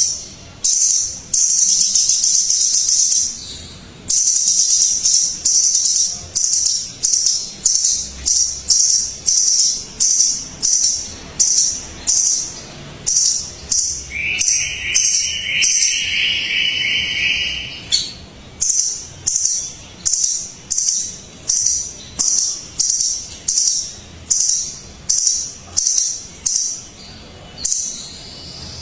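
A pair of nuthatches calling: high, thin notes repeated about once a second, with longer unbroken runs in the first few seconds. A lower, drawn-out call joins from about halfway through for a few seconds.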